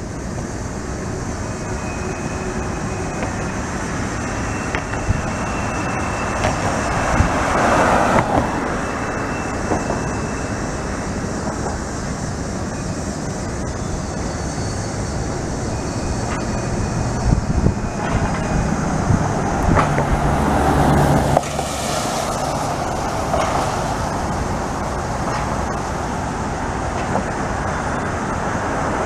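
A train rolling past: steady rail and wheel noise with a few faint, thin, high squeals.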